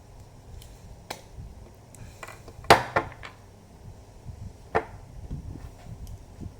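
Sharp clicks and knocks of a screwdriver working at a stuck laptop screw: one click about a second in, a loud cluster of knocks near three seconds, and another sharp knock near five seconds.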